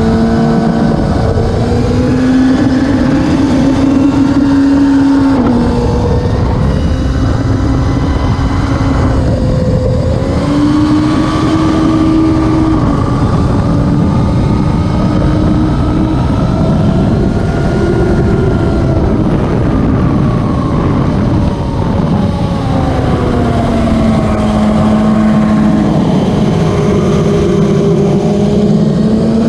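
Racing superbike engine at high revs, its pitch climbing and then dropping in steps again and again, as with gear changes and slowing for corners.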